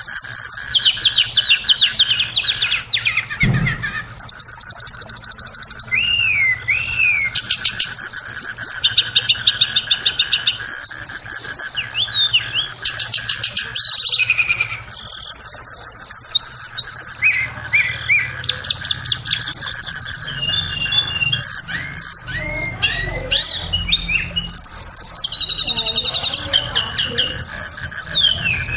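Tledekan (blue flycatcher) singing a continuous stream of fast, varied phrases of high whistles, rapid trills and up-and-down gliding notes, over a steady high buzz. It is a masteran lure song, played to prompt caged tledekan to sing.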